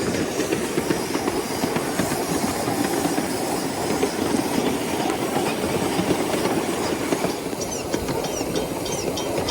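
Miniature 7¼-inch gauge live steam train running along the track, a steady clatter of wheels and running gear. Short high chirps come in near the end.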